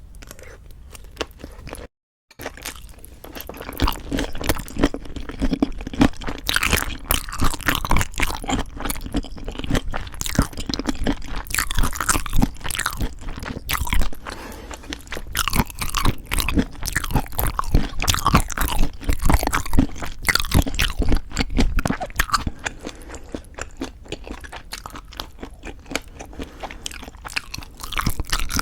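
Close-miked chewing of crunchy food: a mouthful of raw fish bibimbap and boneless chicken feet wrapped in leafy greens, with dense, irregular crunches and wet mouth sounds. The sound drops out briefly about two seconds in and is louder afterwards.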